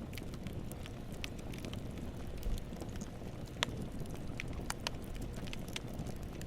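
Wood campfire burning: a low steady rumble of flames with irregular sharp crackles and pops, one louder pop a little past halfway.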